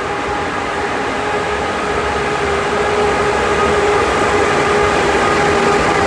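ЭП2К electric passenger locomotive pulling out with its train: a steady whine of several even tones over a broad rumble, growing slightly louder.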